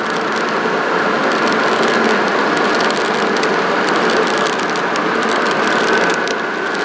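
Model train running on the layout: a steady running noise with faint humming tones and many small, rapid clicks from the wheels on the track.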